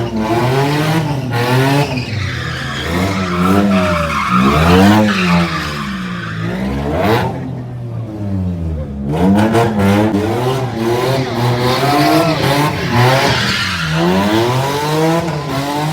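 A car's engine revving up and down over and over while its rear tyres spin and squeal on the pavement, a car doing burnouts and donuts. The tyre squeal drops away for about a second and a half near the middle while the engine keeps revving.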